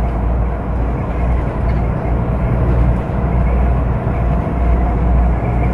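Semi-truck diesel engine running with road noise inside the cab while driving, a steady low drone.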